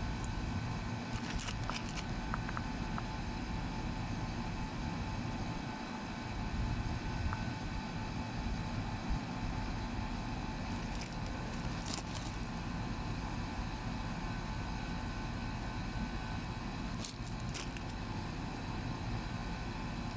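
Steady motor hum with a few short clicks or taps scattered through it.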